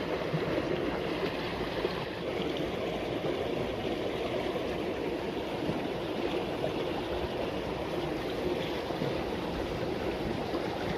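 Water flowing steadily along a small irrigation ditch, an even rushing and gurgling.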